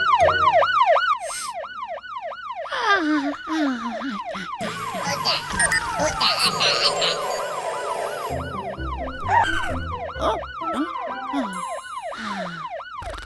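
Cartoon emergency-vehicle siren wailing in quick rising-and-falling arcs, about three a second, overlaid in the middle by falling slide-whistle-like glides and bright jingly sound effects.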